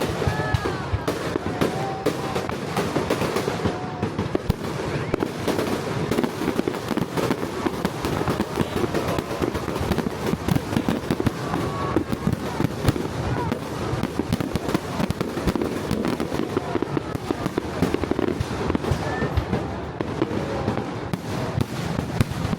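Fireworks display: a continuous barrage of many bursts and crackles a second, with no let-up.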